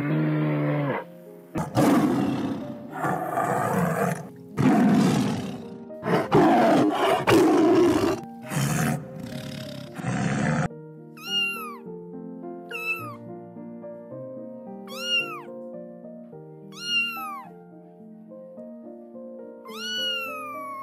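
A cow's moo ends, then a run of loud, harsh animal roars lasts about nine seconds and cuts off suddenly. Soft background music with stepping notes follows, with five short high calls that each fall in pitch.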